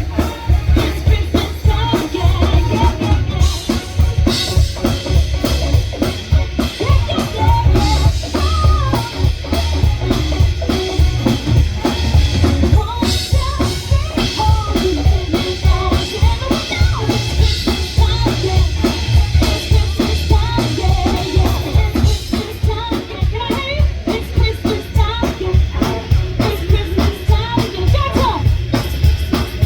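Live band music played over a PA system, with a drum kit keeping a steady beat under bass and other instruments.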